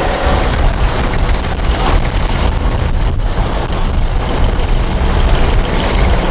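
Competition pulling tractor's engine running loud and steady under load, a low rumble with a dense crackle over it.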